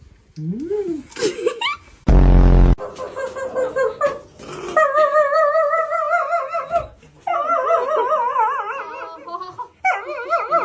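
Dog coming out of anesthesia crying in long, wavering howl-like whines broken by short pauses, the kind of vocalising typical of a dog still groggy from the drugs. About two seconds in there is a short, loud, low buzzing groan.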